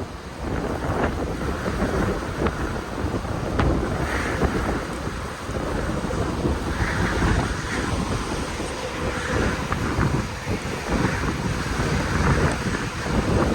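Strong, gusty storm wind buffeting the microphone: a low, rumbling rush of noise that swells and eases with each gust.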